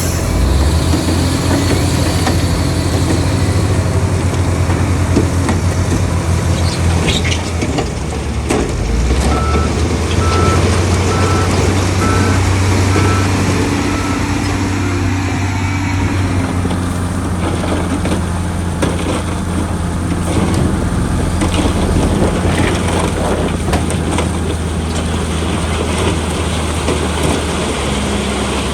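Heavy diesel earthmoving machinery, dump trucks and a bulldozer, running steadily with scattered knocks and clanks. A reversing alarm sounds in short beeps for a few seconds, about nine seconds in.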